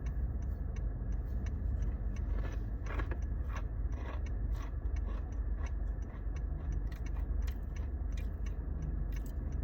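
Crunching and chewing of a crispy, dry ramen noodle snack: irregular sharp crunches while it is bitten and chewed.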